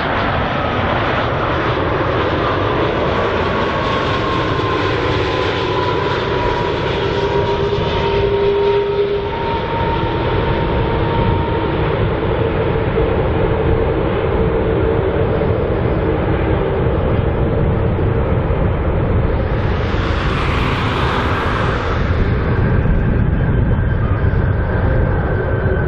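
Airbus A330 twin-jet engines running loud and steady as the airliner lands, with a whine that falls slowly in pitch over the first half. A brief rush of hiss comes about twenty seconds in.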